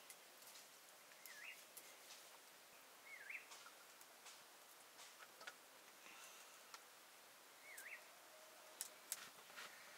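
Near silence, with scattered faint clicks and a small bird chirping three times, each chirp a short wavering note.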